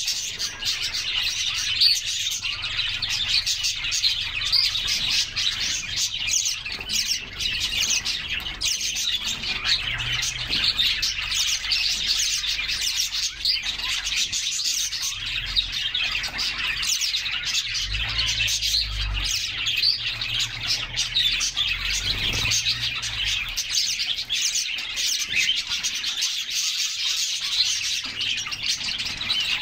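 Several canaries chirping and singing continuously, their calls overlapping into a dense, steady twittering. A brief low rumble comes a little past the middle.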